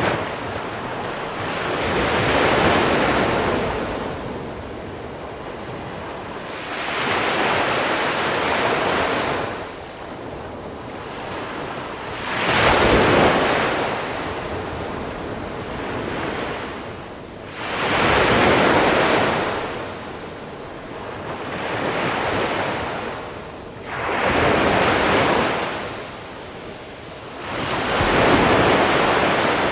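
Sea waves breaking and washing over a small-pebble shore. Each wave is a wash of noise that swells and fades, about one every five seconds.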